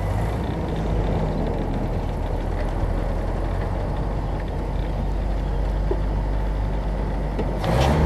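1968 Land Rover Series IIA on the move: a steady drone of engine and road noise.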